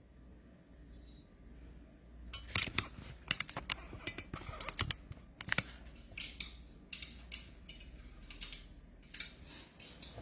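A run of irregular sharp clicks and light crinkling handling noises, starting about two and a half seconds in, densest for the next few seconds and then more scattered.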